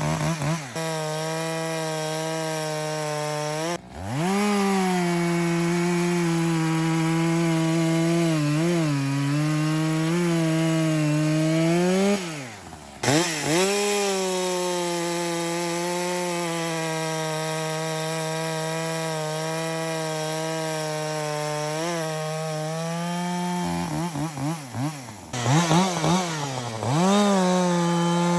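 Echo CS-620 two-stroke chainsaw sawing through an ash log, running at a steady high pitch under load. The engine drops off and revs back up about four seconds in, and again around thirteen seconds. Near the end there are several quick throttle blips.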